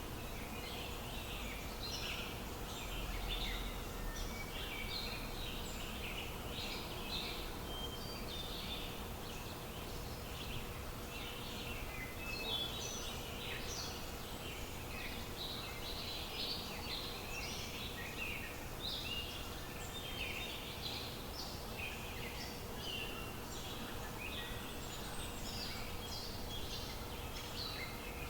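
Many birds chirping continuously over a steady background noise, with a faint constant hum.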